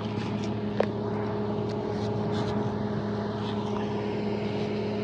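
Motor vehicle engine running at a steady, unchanging pitch, with a few faint ticks over the hum.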